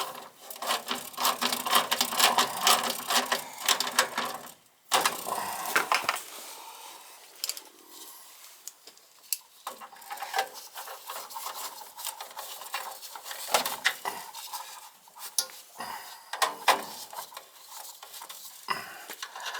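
Hands working on furnace parts and wiring: a dense run of clicking and rattling for about the first five seconds, then scattered clicks and short rubbing sounds.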